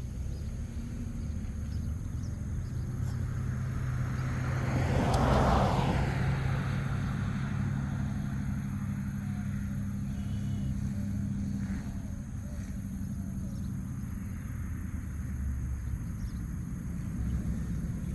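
Roadside traffic: a vehicle drives past, loudest about five seconds in, over a steady low engine hum.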